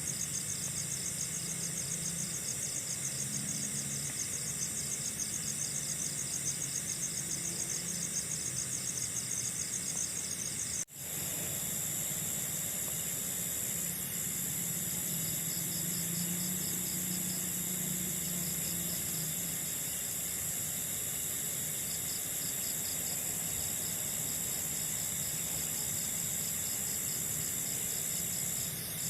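Chorus of night insects, crickets among them, chirring steadily in high pulsing trills. The sound drops out for an instant about eleven seconds in, then goes on as a more even high trill.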